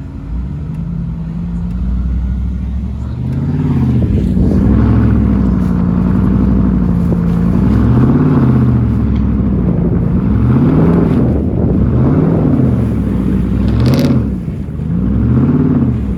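Motor vehicle engine revving up and down over and over, its pitch rising and falling about every second and a half after a steadier start. A brief burst of noise comes near the end.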